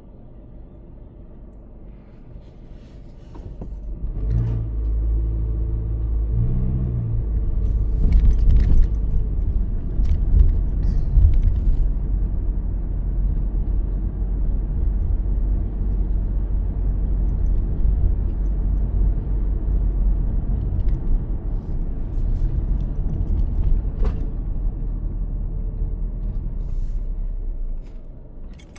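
Car driving: after a few quieter seconds, a low engine and road rumble sets in about four seconds in and runs steadily, with a few brief clicks, before dropping off at the very end.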